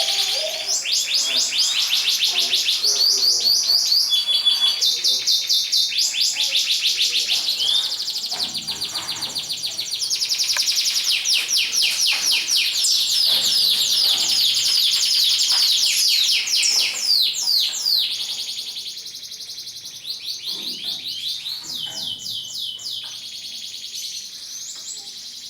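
Domestic canaries singing: long runs of fast trills and chirps. The song is loud for most of the stretch and grows softer about 18 seconds in.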